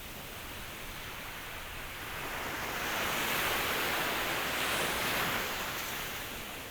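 Ocean waves: a wave swells in as a rising hiss of surf, is loudest about three to five seconds in, then washes back and fades near the end.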